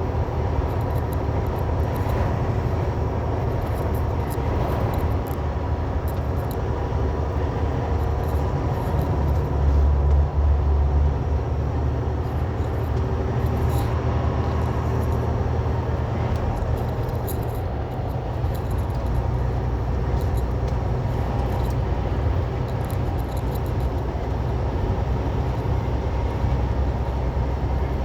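Semi truck driving on the highway: a steady low diesel engine drone with road noise, swelling louder for a moment about ten seconds in.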